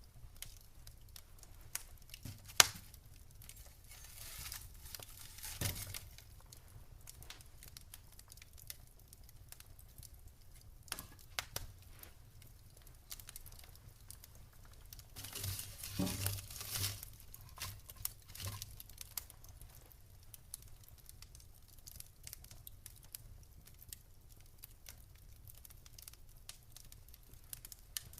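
Wood fire crackling in a fireplace: scattered small pops and snaps, one sharp pop a couple of seconds in, and two short hissing surges, one early and one a little past the middle.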